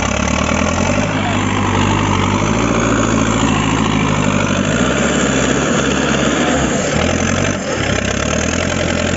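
Sonalika 750 tractor's diesel engine running loud and steady, its note shifting slightly about five seconds in and dipping briefly at about seven and a half seconds.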